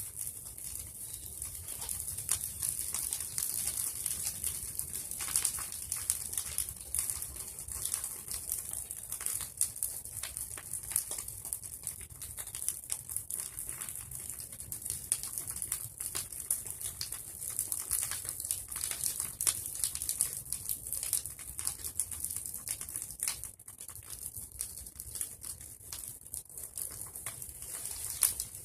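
Bonfire of pruned tree branches and leaves burning, with irregular sharp crackles and pops over a steady hiss.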